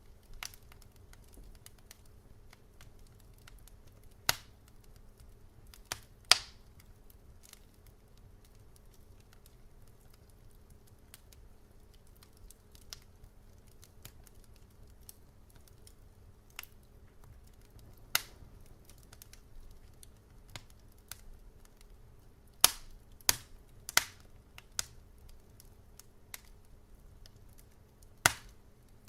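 Wood fire crackling in a fireplace: a low steady rumble of flames with sharp, irregular pops and snaps, a few louder ones about four and six seconds in, a cluster of three or four in quick succession a little past twenty-two seconds, and another near the end.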